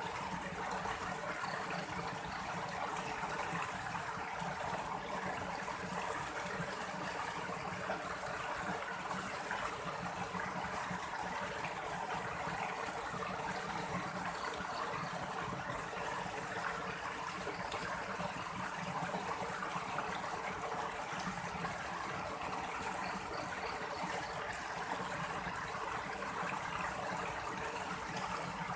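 Steady rushing of running stream water, unchanging throughout.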